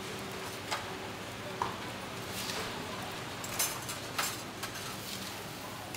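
Flatbreads frying in oil in a wide steel drum fryer, a steady sizzle, with about five sharp metal clinks spread through.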